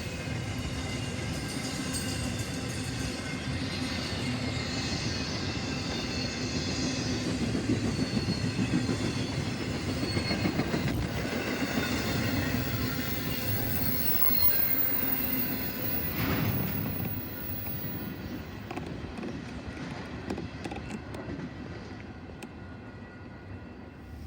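Train rolling past on the rails, with a steady rumble and the high ringing squeal of steel wheels on the track. It grows quieter over the last several seconds.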